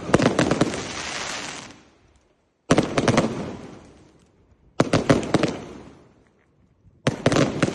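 A 224-shot 'Ares God of War' firework cake firing in volleys: four bursts of rapid cracking shots about two seconds apart, each fading out over a second or so.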